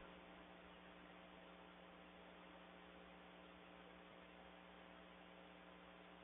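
Near silence: a faint steady electrical hum over low hiss from the recording, with no bird calls or other events.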